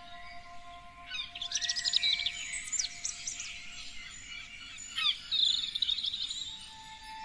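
Songbirds chirping and singing in quick, high phrases: a burst of rapid notes about a second in, another near the middle, and a warbling phrase around five seconds.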